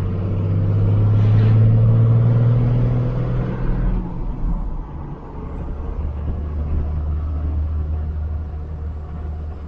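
Dodge Ram 2500's 12-valve Cummins diesel pulling hard in gear, its note climbing with a thin high whistle rising alongside it. About four and a half seconds in, the revs and whistle drop, and the engine settles to a steadier, lower note.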